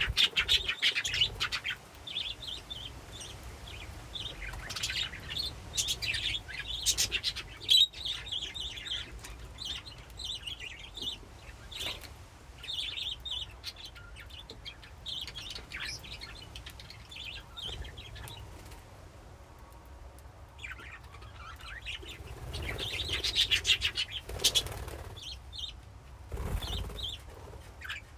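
A flock of budgerigars in a colony cage chirping and chattering, with many overlapping short calls and warbles that grow louder and busier in a few stretches, notably near the start and about three-quarters of the way through.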